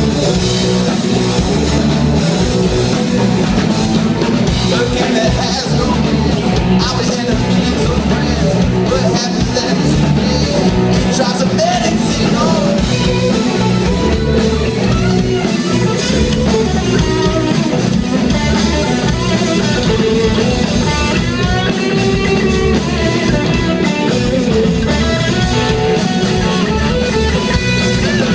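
Live rock band playing loudly and steadily, electric guitar over a drum kit, as picked up by a phone's microphone.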